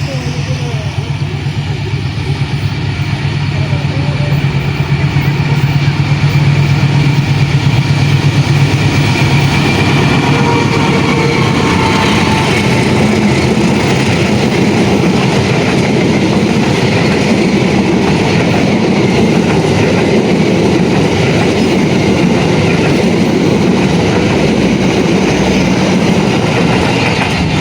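Diesel-electric locomotive and its passenger train passing close by. A low engine drone at first, growing louder over the first few seconds, gives way to the steady rumble and rattle of the carriages rolling over the rails.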